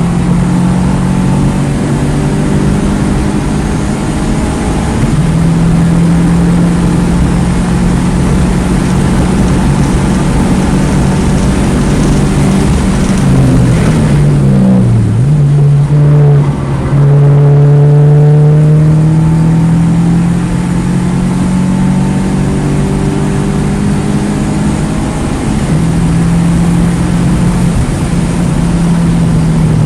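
2009 Mini Cooper S's turbocharged four-cylinder engine running hard on a race track, with steady engine tones that step in pitch at gear changes. About halfway through, the pitch falls steeply and then jumps back up, a slowing-down and downshift, over steady road and wind noise.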